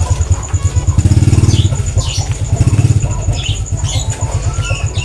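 A small engine running steadily with a fast, even pulse, louder than everything else. Short, high chirps from caged songbirds come in repeatedly over it.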